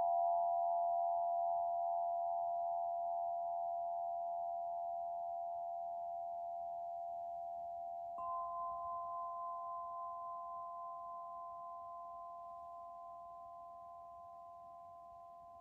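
Several pure ringing tones from struck sound-healing instruments overlap and slowly fade. About eight seconds in, a fresh strike adds a new, higher tone, and the close pitches beat against each other.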